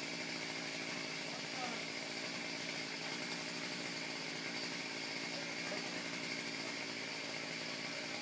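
Chainsaw engine running at a steady pitch, without revving up or down.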